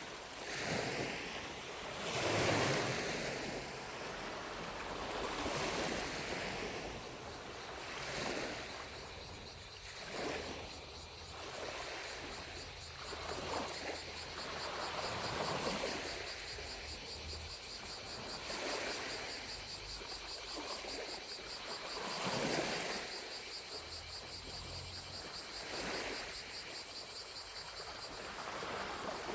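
Small lake waves lapping at the shore, a soft wash every two to four seconds. From about a third of the way in, distant cicadas add a fast-pulsing high buzz.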